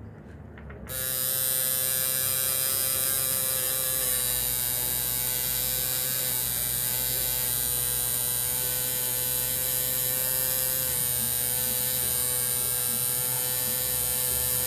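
Tattoo machine running with a steady electric buzz, switched on about a second in.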